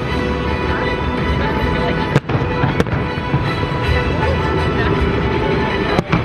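Fireworks going off in a dense, continuous rumble of bursts and crackle, mixed with music.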